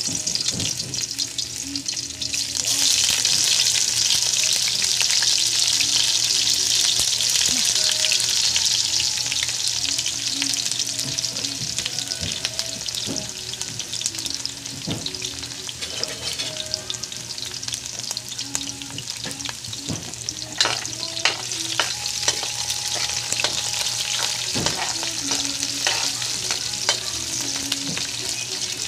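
Garlic and onion sizzling in hot oil in a metal wok, a steady frying hiss that grows louder a couple of seconds in. In the last third a metal spatula stirs, clicking and scraping against the pan.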